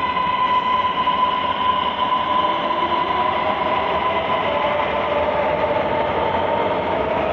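Electric metro train running, a steady rumble with a high electric whine. In the second half a lower whine rises slowly in pitch.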